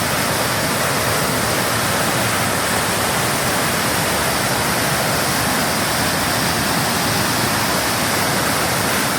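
Rain-swollen waterfall and floodwater rushing after a heavy rain, a loud, steady roar of water.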